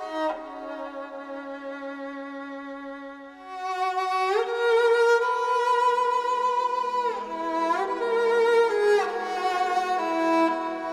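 Background music: a slow, solo violin melody with sliding notes and vibrato. It is soft for the first few seconds and grows louder about four seconds in.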